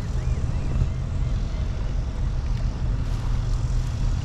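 A boat's outboard engine idling with a steady low rumble while the boat sits at the bait spot.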